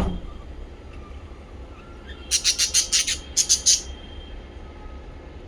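Small pet parrots calling: a run of about nine shrill, harsh chirps in two quick groups about halfway through, over faint twittering and a low steady hum. A sharp knock sounds at the very start.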